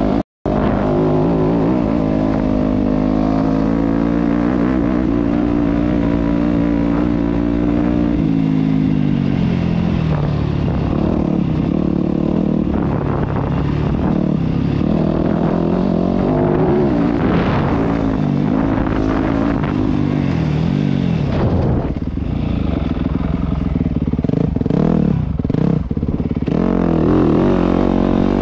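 Yamaha YZ250F dirt bike's four-stroke single-cylinder engine running hard, its pitch rising and falling repeatedly as the rider works the throttle and shifts. The sound cuts out for an instant just after the start.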